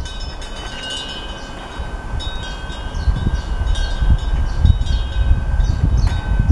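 Korean temple wind bell (pungyeong) ringing in the wind: repeated light strikes of its clapper over a steady ringing tone. Gusts of wind rumble on the microphone, growing stronger about halfway through.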